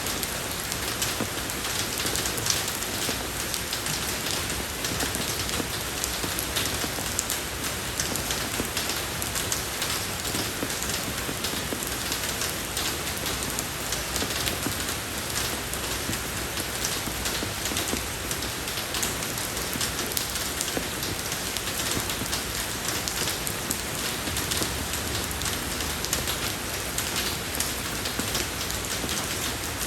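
Steady rain falling on a road surface, a constant even hiss of many drops with small individual patters throughout.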